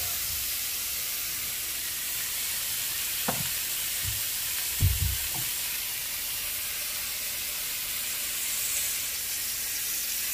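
Monkfish pieces sizzling steadily in butter in a frying pan over a gas flame, with a few dull knocks around the middle, the loudest about five seconds in.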